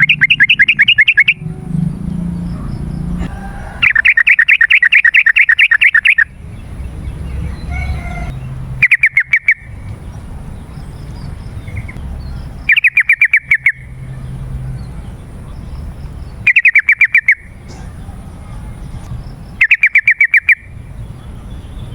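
Yellow-vented bulbul (trucukan) singing: six loud bursts of rapid, evenly repeated notes, each lasting from about half a second to two seconds, with pauses of a few seconds between them.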